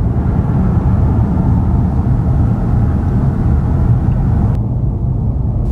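Steady low road-and-engine rumble heard from inside a moving vehicle. The lighter hiss above it drops away abruptly about four and a half seconds in.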